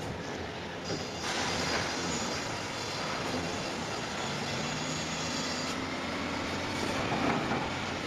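A heavy vehicle running steadily, with a low engine drone under dense mechanical noise that grows fuller about a second in.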